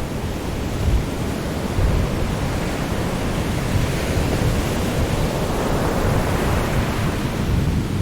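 Sea waves washing on a shore: a continuous rushing surf with a deep rumble underneath, one wave swelling up in the middle and washing back out.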